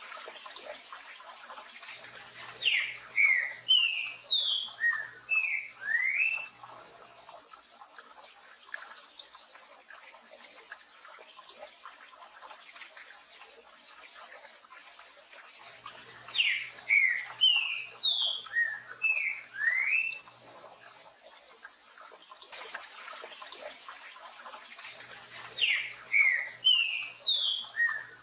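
Green-winged saltator (trinca-ferro) singing its 'tio João Pedro boi' song: three loud phrases of about eight quick, sliding whistled notes, the phrases some ten seconds apart. A steady rain hiss runs underneath.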